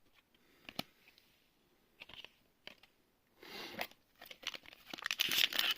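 A few soft clicks of cards being handled, then from about four seconds in the foil wrapper of a booster pack crinkling as it is handled, growing louder near the end.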